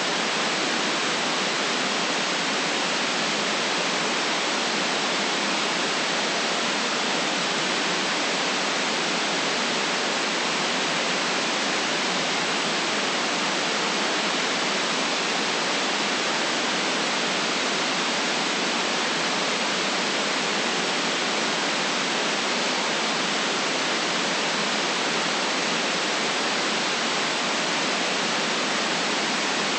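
Steady synthetic white noise: an even, unchanging hiss with no deep bass and no highest treble, and no separate sounds in it.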